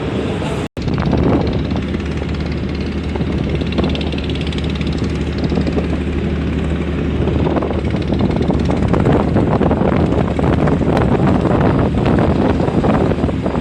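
Steady low drone of a ro-ro ferry's engines and machinery, with a rushing noise over it that grows busier in the second half.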